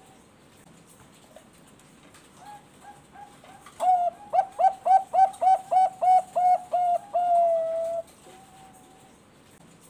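A Bangkok-strain perkutut (zebra dove) singing one full song phrase. A few soft introductory coos lead into a fast run of about a dozen short staccato notes, roughly four a second, which ends in one long drawn-out note.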